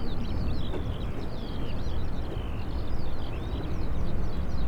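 Small songbirds chirping and warbling busily in quick, overlapping phrases over a steady low rumble.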